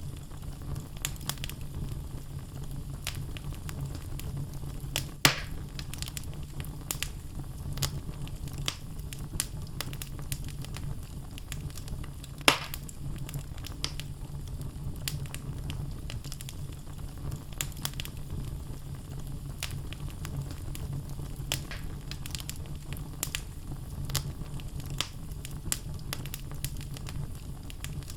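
Wood logs burning in a fireplace: a steady low rumble of flame with frequent small crackles and pops, and two louder snaps about five and twelve seconds in.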